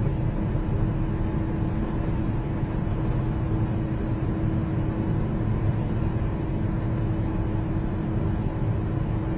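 Steady drone of a jet airliner heard from inside the cabin: a low, even rumble with a constant hum over it.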